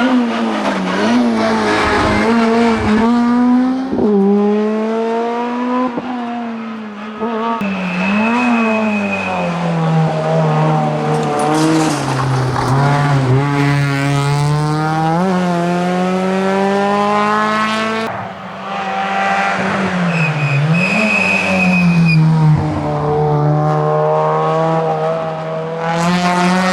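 Rally cars driven flat out on a tarmac stage, first an Opel Adam R2, then a Peugeot 206 RC. The engine note climbs and drops again and again through gear changes and lifts, with brief tyre squeals twice.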